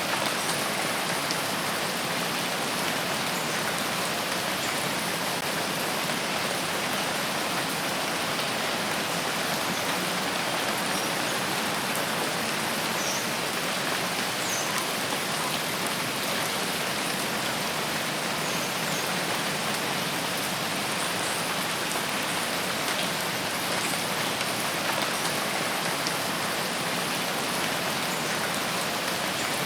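Steady rain falling in a forest: a dense, even hiss of drops on leaves and ground that holds the same level throughout.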